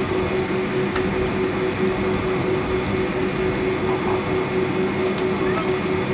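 Steady vehicle drone: a constant noise with an unchanging hum, as heard from inside a moving vehicle, with a few faint clicks.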